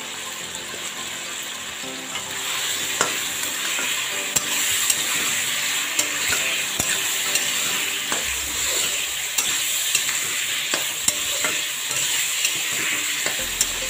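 Chicken and potato chunks sizzling in hot oil in an iron kadai, stirred with a metal spatula that clicks and scrapes against the pan. The sizzle grows louder a couple of seconds in as the stirring starts.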